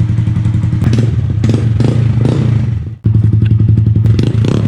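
Honda Grom's 125 cc single-cylinder engine idling steadily through an aftermarket Ransoto slip-on exhaust, with a few clattering knocks in the first half. The sound cuts out for an instant about three seconds in, then the idle carries on.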